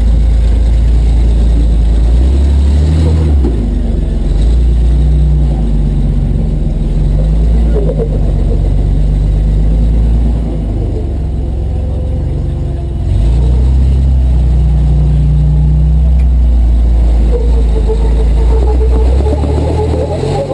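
Off-road vehicle engine working hard at low speed on rock, revving up and easing off so its pitch rises and falls.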